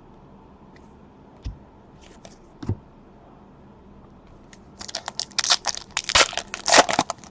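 Crinkling, tearing plastic or foil of a trading card pack wrapper being handled and ripped open: a couple of soft knocks, then a run of crackly rustles in the second half.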